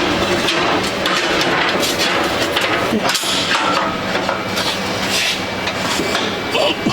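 Repeated metal knocks and clanks, as steel is struck and handled, over a steady machine hum.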